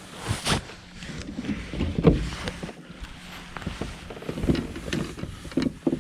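Irregular knocks, bumps and rustling in a kayak as a freshly caught bass is landed and handled, the sharpest bump about two seconds in.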